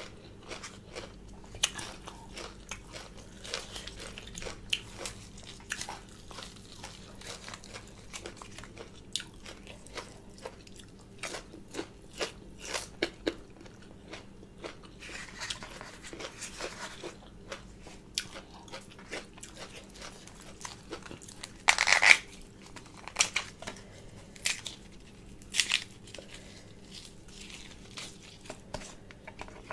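A person chewing and biting crunchy food up close, with many short crisp crunches; the loudest crunch comes about three-quarters of the way through.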